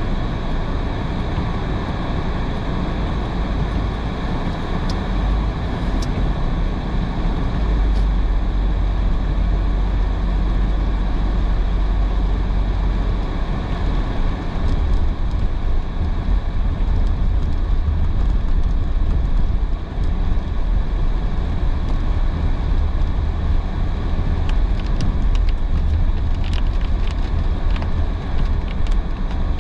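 Car driving on a rain-soaked road: steady tyre and road noise with a low rumble, and a few faint ticks scattered through, most of them near the end.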